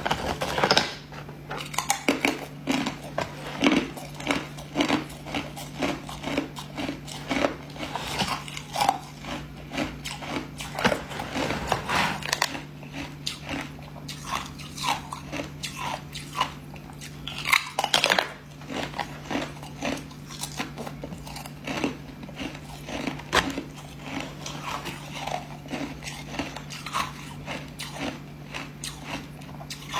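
Hard ice being bitten and chewed, with sharp crunches coming in quick, irregular succession throughout.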